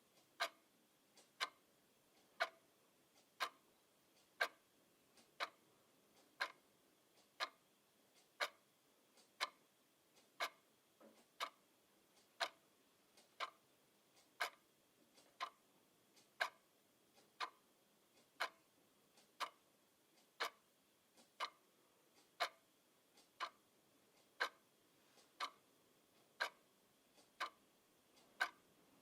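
Clock ticking steadily at about one tick a second. Each tick is a sharp click, often with a fainter click just before it.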